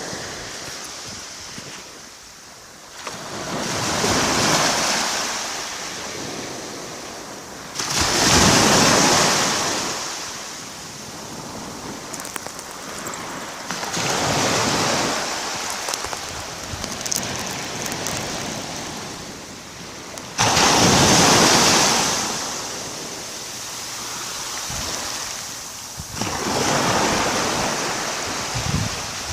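Small waves of a calm sea breaking gently on the shore, about five in turn, roughly six seconds apart. Each is a rush of surf that swells and fades before the next; two of them break more sharply.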